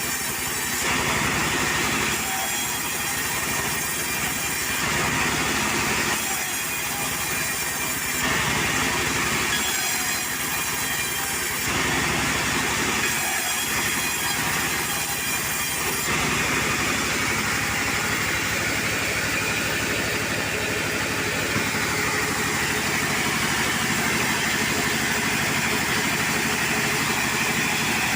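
Portable sawmill running: a steady engine and saw noise with no pauses. The tone shifts every couple of seconds through the first half, then holds even.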